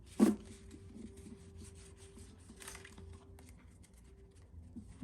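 A deck of playing cards being handled and sorted by hand: soft rubbing and light card clicks, with one louder short sound just after the start.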